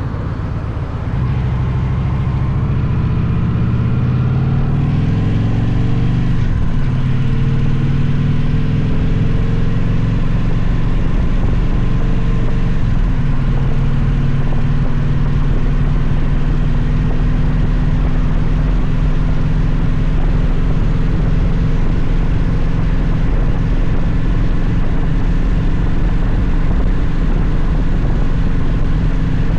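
Victory motorcycle's V-twin engine pulling away and accelerating, its pitch climbing from about a second in, dropping at a gear change around six seconds in, then climbing again. It settles to a steady cruise over a constant rush of wind and road noise.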